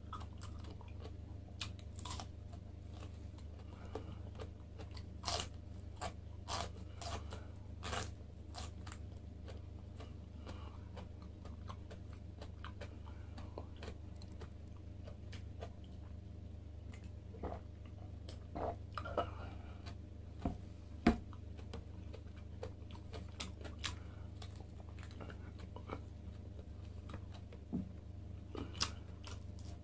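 Mouth sounds of crunching and chewing a pickled vegetable, with irregular crisp bites in scattered clusters, over a steady low hum.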